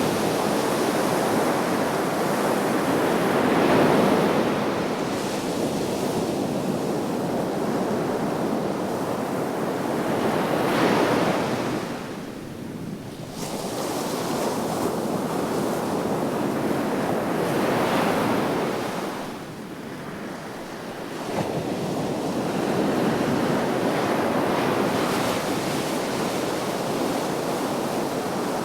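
Sea waves breaking and washing ashore, a surge about every seven seconds, each followed by a brief lull.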